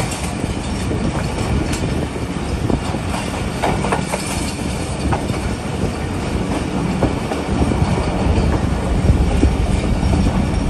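Pak Business Express passenger train running along the track: a steady rumble of wheels on rails, with scattered sharp clicks and rattles.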